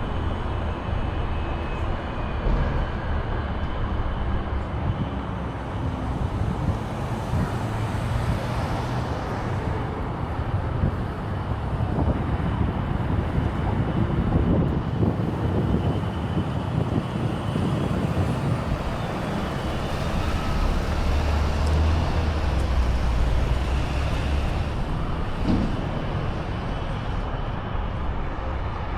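Downtown street traffic: vehicles passing with steady road noise, and a heavier low rumble from a larger vehicle about two-thirds of the way through.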